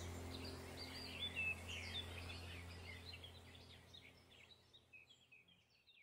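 Small birds chirping and twittering in quick short notes over a low steady hum, the whole fading out gradually toward the end.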